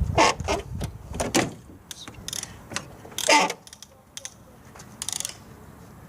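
A series of short scrapes and knocks, the longest and loudest a little past three seconds in, then a quick run of clicks a little after five seconds.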